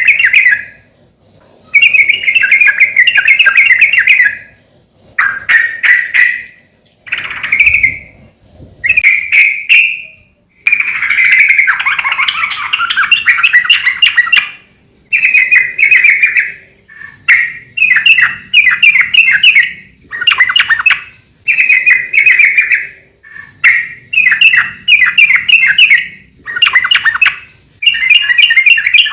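Yellow-vented bulbul (trucukan) in full song, giving loud, bubbly phrases of quick notes, each one to three seconds long, with short pauses between them.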